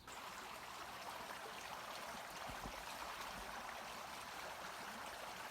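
Valley stream flowing: a steady rush of water.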